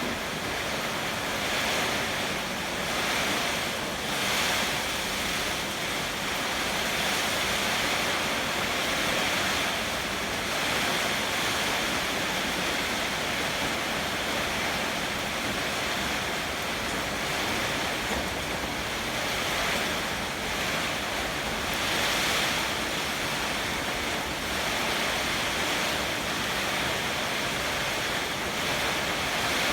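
Heavy rain with strong wind, a dense steady rush that swells now and then as gusts pass.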